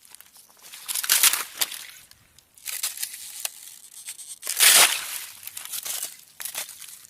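Ice cracking and crunching in irregular bursts of sharp crackles, the loudest burst coming just under five seconds in.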